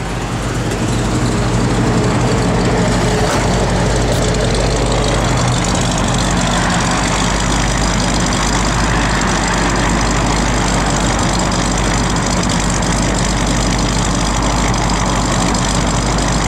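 1964 Buick Riviera's 425 cu in 'Wildcat 465' Nailhead V8, on a four-barrel carburettor, idling steadily through its dual exhaust, heard from behind the car.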